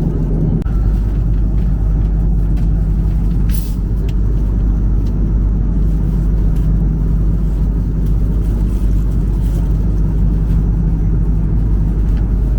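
Steady low rumble inside the cabin of an Airbus A330-200, the drone of its engines and airflow.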